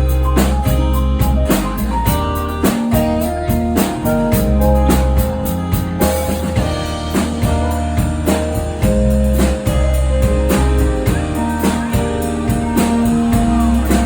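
A band with electric guitar, keyboard, bass and drum kit plays an instrumental passage with a steady beat. About halfway through, the busy cymbal strokes drop away and sustained keyboard and guitar notes carry on over the bass.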